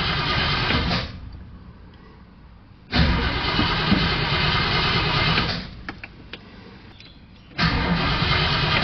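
An old car's engine being cranked on the starter in three separate tries, each a few seconds of steady churning broken by a pause, without the engine catching: an old carburetted car that won't start.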